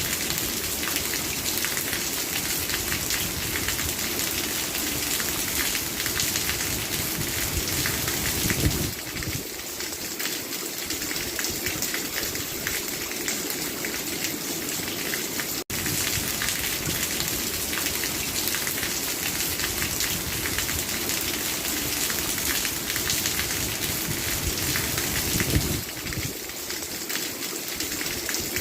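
Steady rain falling, a dense even hiss with no break except a split-second dropout about halfway through.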